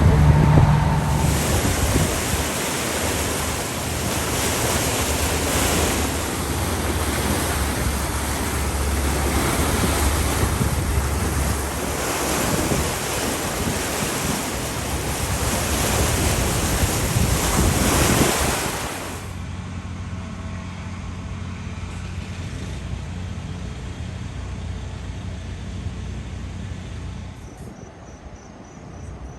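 Loud, steady rushing of fast floodwater from a swollen creek, with some wind on the microphone. It cuts off abruptly about two-thirds of the way in, leaving a quieter low steady hum, and high-pitched insect chirping begins near the end.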